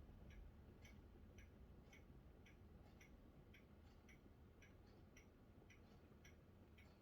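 Faint, regular ticking, about two ticks a second, over a low steady rumble.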